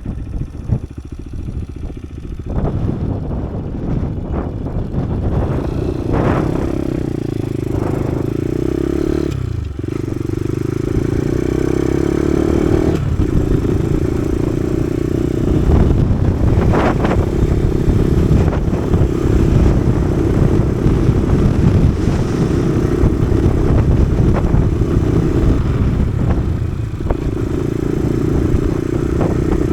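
Kawasaki KSR110's small single-cylinder four-stroke engine running while the bike is ridden, at a fairly steady pitch that dips briefly twice, about a third of the way in and again shortly after. It grows louder over the first third.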